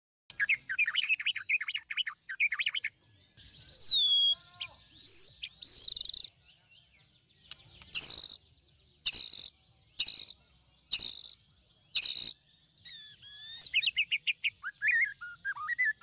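Birds calling: first a fast run of chirps, then a few whistles that slide up and down in pitch, then five loud harsh calls about a second apart, and a busy jumble of squawks and chirps near the end.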